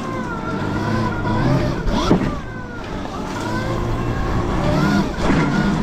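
Electric dirt bike being ridden: the motor's whine rises and falls in pitch with the throttle over a rushing noise. It eases off around halfway, then builds again.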